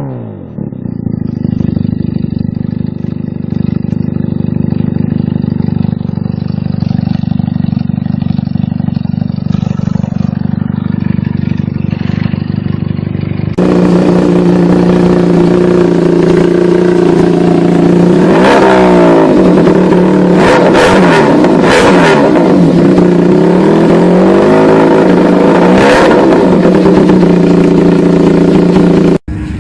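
Benelli TNT300 parallel-twin engine with a loud aftermarket exhaust idling steadily. About halfway through there is a cut to a louder idle, and the throttle is blipped several times, the pitch rising and falling with each rev.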